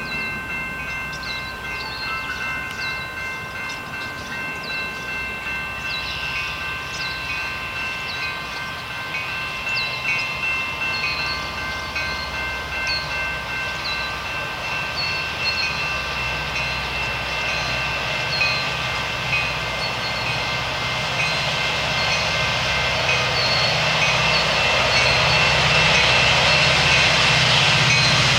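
Canadian Pacific freight train approaching, the locomotives' low rumble growing steadily louder, especially over the last ten seconds. A steady high ringing of several tones at once runs underneath.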